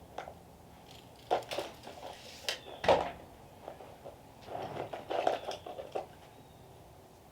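Irregular wooden knocks and clunks of lumber being handled, the loudest about three seconds in and a quick cluster near the end.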